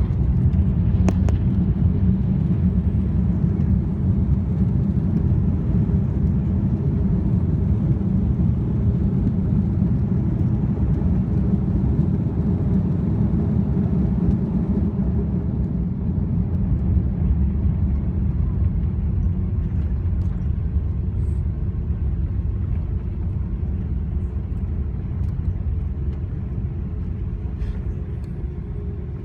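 Steady low rumble of an Airbus A330-200 heard from inside the cabin, easing slightly near the end.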